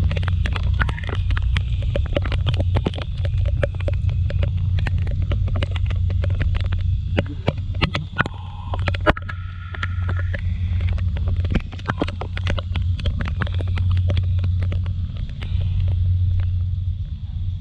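Riding noise on a Kymco Like 125 scooter in the rain: a steady low rumble of wind and engine, with rapid sharp taps of raindrops striking the camera throughout. About eight to ten seconds in, two short steady tones, like horn notes, sound briefly.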